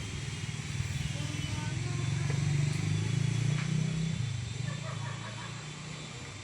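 A low engine hum that swells, is loudest in the middle, then drops off about two thirds of the way through and fades. Faint short chirps are heard in the second half.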